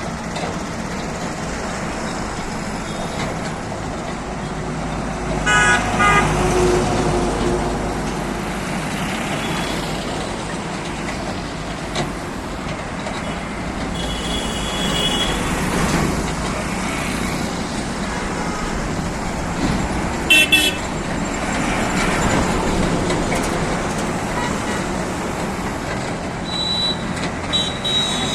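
Engines and road traffic running steadily, with a vehicle horn sounding briefly about five seconds in and again about twenty seconds in.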